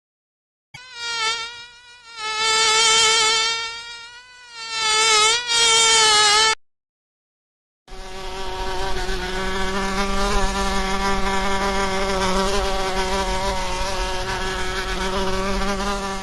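Flying insect's wings buzzing in two separate recordings: first a wavering buzz that swells and fades, then after a short silence a steadier, continuous buzz.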